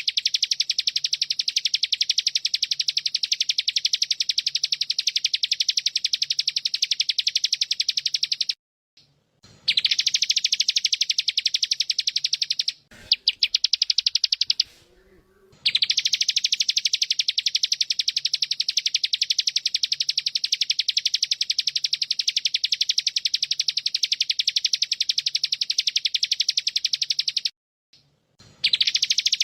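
Bren cicada (tonggeret) buzzing: a continuous, very fast, high-pitched pulsing drone that breaks off briefly about a third of the way in and again near the end. Around the middle it gives way for a couple of seconds to a quieter stretch of other, fainter calls.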